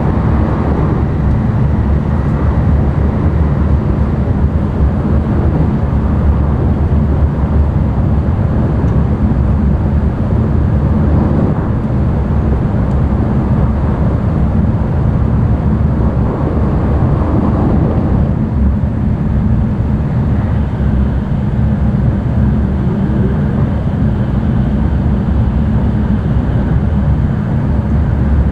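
Steady running noise of an N700-series Tokaido Shinkansen at speed, heard inside the passenger cabin: a continuous low rumble with a rushing hiss above it. The rush swells briefly about eleven seconds in and again around seventeen seconds.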